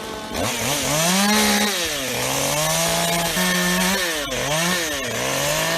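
Two-stroke chainsaw running under the throttle, its engine pitch rising, holding, and dropping back about four times.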